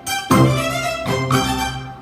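Background music with string instruments playing sustained notes, a new chord coming in about every second.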